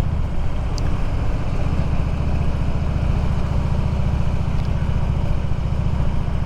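Harley-Davidson Road King's V-twin engine running at a steady, even speed while riding, with a rush of wind noise over it.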